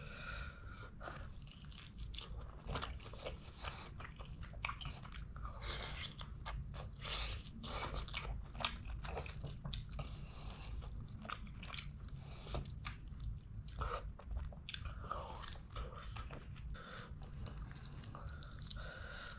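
Close-up eating sounds of a person eating chicken curry and rice by hand: irregular biting, chewing and crunching with many small mouth clicks.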